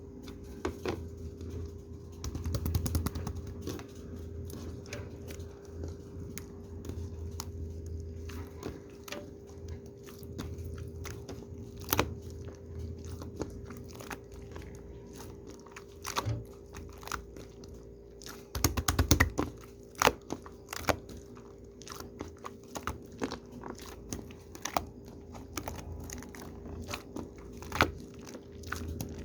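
Shaving foam being squished and worked by hand: an irregular run of small wet crackles and clicks, with denser bursts twice, over a steady low hum.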